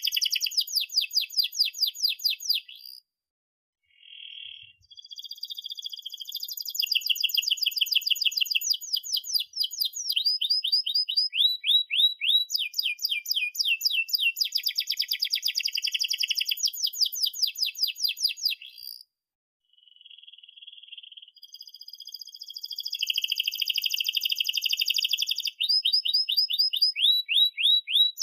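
Domestic canary singing long, continuous song phrases made of fast trills and rolls of rapidly repeated chirps, pausing briefly twice, about three seconds in and again near nineteen seconds.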